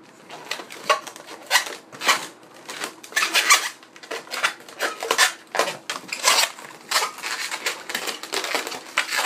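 Inflated latex 260 modelling balloons squeaking and rubbing against each other in quick, irregular bursts as they are twisted and woven together by hand.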